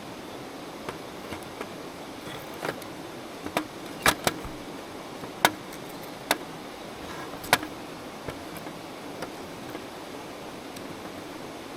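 Wood campfire crackling: a steady hiss with a handful of sharp, irregular pops, the loudest a little after four seconds in and again about five and a half seconds in.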